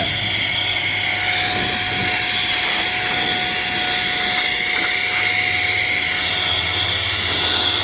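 HŌM cordless electric air duster running steadily in blowing mode, its high-speed motor giving a constant high whine over the rush of air.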